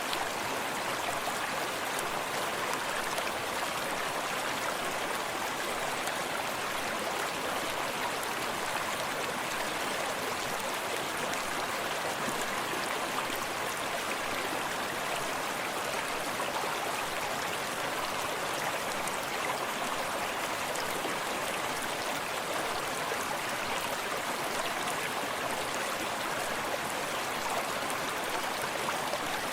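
Forest stream running steadily over rocks: an even rushing and babbling of water with no changes or separate events.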